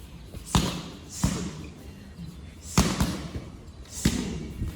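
Muay Thai strikes landing with sharp smacks, four in a few seconds, each followed by a short hiss.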